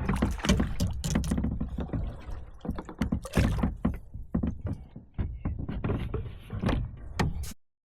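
Repeated knocks and thunks of gear and hands against a canoe hull, with handling noise, as a small bass is landed. The sound cuts off abruptly near the end.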